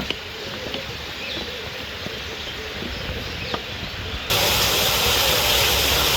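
Aviary ambience with faint scattered bird chirps, then about four seconds in a loud steady hiss starts abruptly and carries on.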